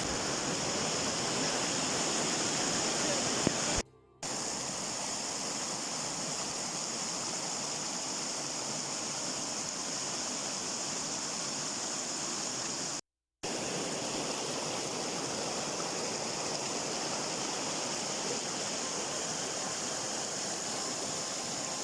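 Steady rushing of a waterfall and cascading stream. The sound cuts out briefly twice, about 4 seconds in and about 13 seconds in.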